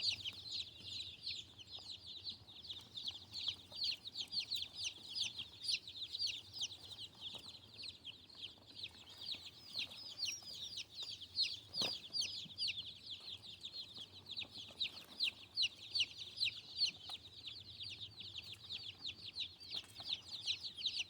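A box of day-old meat-bird chicks peeping nonstop, a dense chorus of short, high, downward-slurred cheeps; the loud screaming of newly shipped chicks that are still cold and stressed and not yet settled under heat lamps. A single knock about 12 seconds in.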